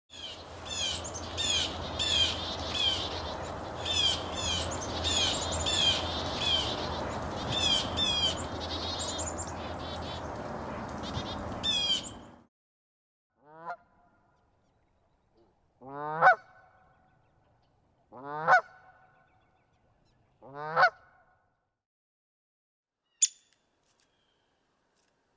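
Geese calling: first a flock calling over one another on a noisy recording, which cuts off abruptly about twelve seconds in. Then come four loud, single rising honks about two and a half seconds apart, and a couple of short, high chips near the end.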